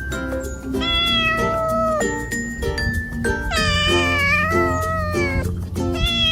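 Cat meowing in long, drawn-out calls: one about a second in, a longer and louder one from the middle, and another starting near the end. Background music with a steady beat plays under them.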